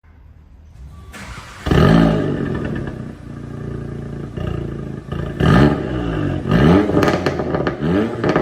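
VW Golf TCR's turbocharged 2.0-litre four-cylinder with a downpipe, intake and stage 1 tune, revving through its exhaust: a sharp rev about two seconds in, then a run of quick throttle blips, each rising and falling in pitch.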